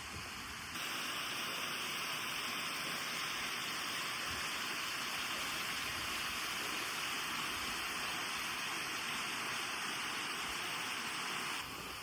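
Steady rush of flowing stream water. It comes in louder just under a second in and falls back near the end.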